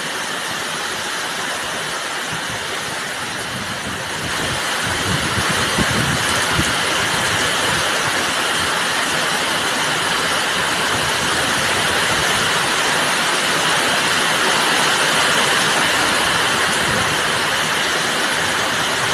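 Heavy rain pouring down in a storm, a dense steady rush that grows louder about four and a half seconds in and then keeps on.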